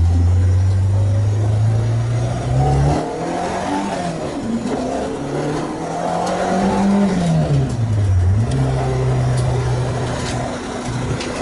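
Renault Clio 2 RS's freshly rebuilt 2.0-litre four-cylinder engine under hard acceleration, its pitch rising for about three seconds and then cutting off sharply as the throttle is lifted. It picks up again, falls in pitch about eight seconds in, holds steady and eases off near the end.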